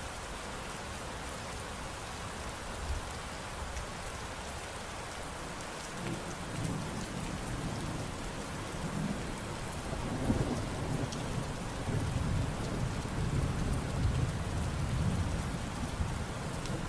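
Steady rain falling with an even hiss. About six seconds in, low rolling thunder starts rumbling under the rain and swells a few seconds later.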